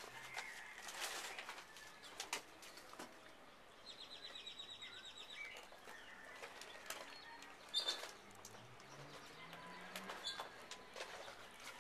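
Faint small-bird chirps, with a rapid, evenly pulsed trill lasting about a second near the middle. Scattered sharp clicks and scuffs, the loudest about eight seconds in.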